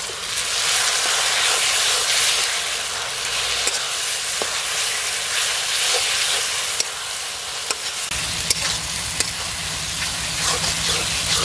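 Ground garlic, ginger and tomato pastes with fried onions and green chillies sizzling in hot mustard oil in a metal karahi, frying until the raw smell of the pastes goes. A metal spatula stirs the mixture, clicking and scraping against the pan now and then.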